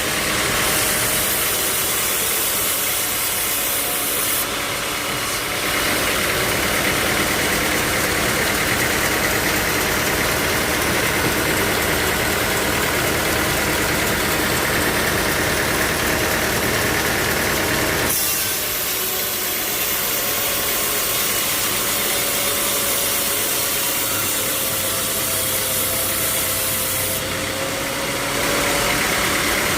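Sawmill machinery running steadily with engine noise, its character changing abruptly a few times.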